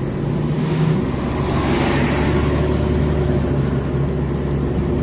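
Steady engine and road drone heard from inside a car cruising at highway speed. About a second and a half in, another car passes with a rush of tyre and wind noise that swells and fades, with no distinct exhaust note; the passing Skoda Octavia vRS is very quiet.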